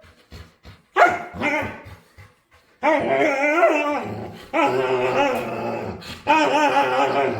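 A pet dog vocalizing in play: a few short falling yips, then from about three seconds in three long calls whose pitch wavers up and down, like a dog trying to talk.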